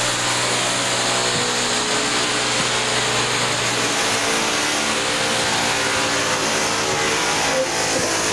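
Construction drill running on the floor above: a loud, unbroken mechanical noise with a steady low hum.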